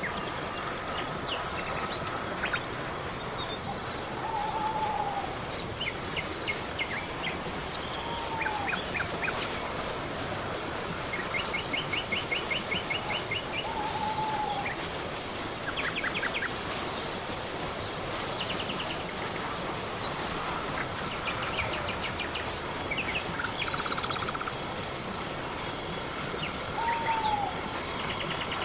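Night-forest insect chorus: crickets chirping in an even, rapid pulse of about three chirps a second, with scattered short trills and an occasional brief call from other night creatures.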